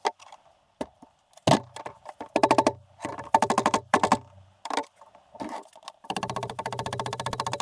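Ratchet wrench clicking in quick bursts as it is worked back and forth on the fasteners of a Kawasaki KD175 engine being dismantled. There are several short runs of rapid, even clicks, with a longer run near the end.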